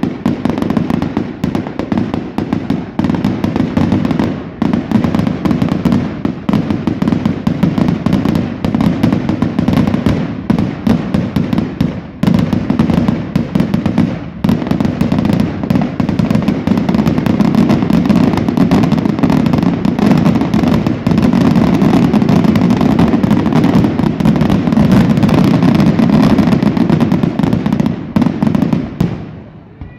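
Fireworks finale barrage: aerial shells bursting in rapid, overlapping succession, a dense unbroken run of booms and crackles. It grows loudest in the last third and stops abruptly near the end.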